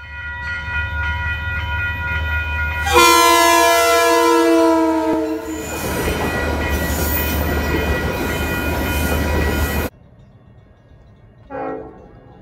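LIRR diesel push-pull train, a C3 bilevel cab car leading, passing a grade crossing while the crossing bells ring. The train sounds its horn about three seconds in, a chord that slides down in pitch as it goes by, over a steady diesel rumble. The rushing noise of the passing train follows and is cut off suddenly about ten seconds in.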